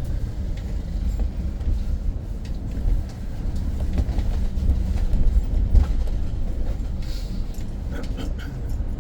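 Running noise inside a BYD BD11 battery-electric bus on the move: a steady low road rumble with scattered rattles and knocks from the body and fittings.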